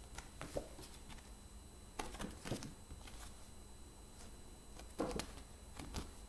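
Faint, short rustles and taps of paper flashcards being handled and flipped, about four in all, with a pair near the two-second mark and another about five seconds in.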